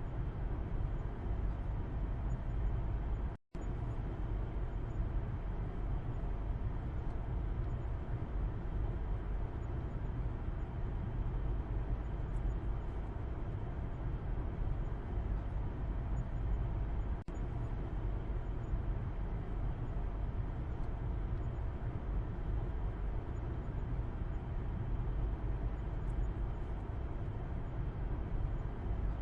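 Steady low rumble of a car's road and engine noise heard from inside the cabin's back seat, cut by a sudden brief gap of silence about three seconds in.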